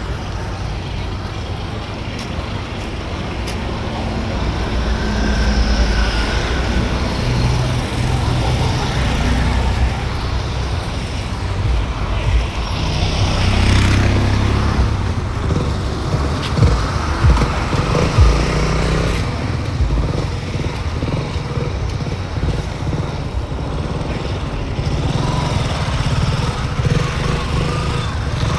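Road traffic noise: a steady low rumble of passing vehicles, with a few short knocks in the middle.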